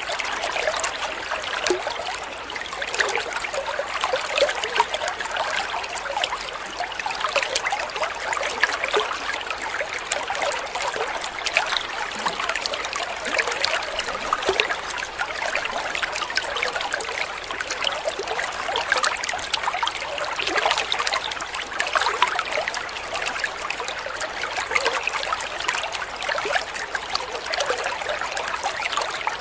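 Small stream of water trickling and babbling steadily over stones, a continuous dense splashing.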